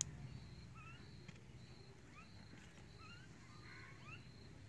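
Faint birdsong: scattered short chirps that rise or bend in pitch, with a thin note repeating about twice a second, over a low steady background rumble. A single sharp click at the very start.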